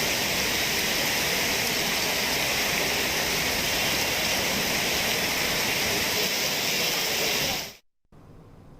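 Heavy rain pouring steadily as an even hiss. It cuts off abruptly near the end, leaving only faint room tone.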